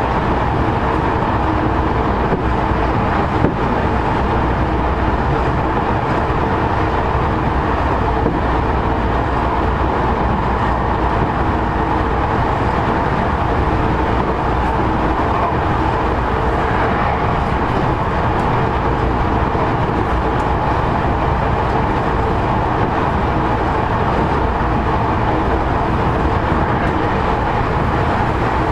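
Tokyo Metro 10000 series electric train running at speed, heard from inside a car: a steady rolling rumble with a few steady tones over it. One sharp click about three and a half seconds in.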